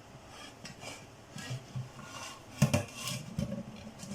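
Metal cooking pot and lid being handled: scattered light clinks and scrapes, with a sharper clatter about two and a half seconds in.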